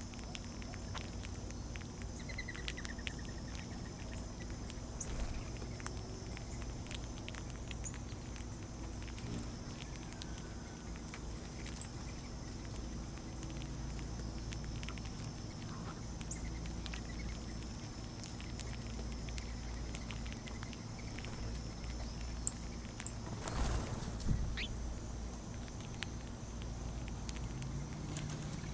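Birds and small animals feeding at a backyard feeder: scattered light ticks and taps with a few faint bird chirps, and a brief louder scuffle about 23 seconds in.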